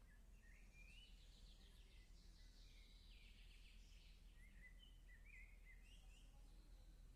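Faint birdsong: several small birds calling with short chirps and trills, heard over a steady low hum.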